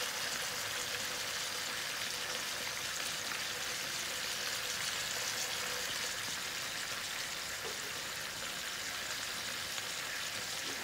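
Chicken wings and pork slices with garlic sizzling steadily in hot oil in a frying pan.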